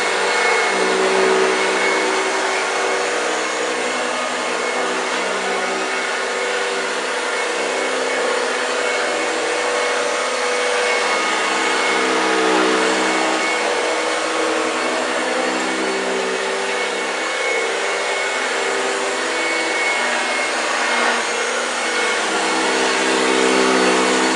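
1965 Hoover Junior 1334A upright vacuum cleaner running continuously, its motor hum drifting slightly up and down in pitch as it works over the floor.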